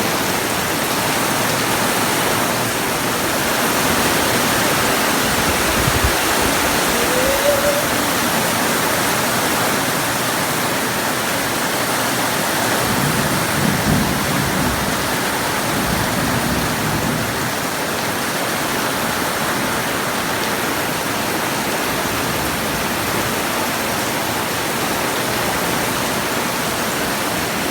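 Heavy rain pouring steadily in a thunderstorm, with a low rumble of thunder about halfway through.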